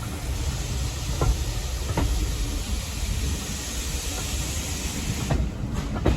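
A heritage steam train running on the line: a steady low rumble with a high hiss and a few faint clicks from the wheels. The hiss drops away about five seconds in.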